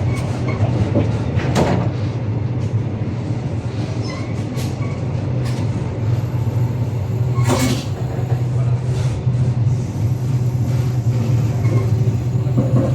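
Passenger train running on the rails: a steady low hum with occasional sharp knocks and clanks, the loudest about seven and a half seconds in.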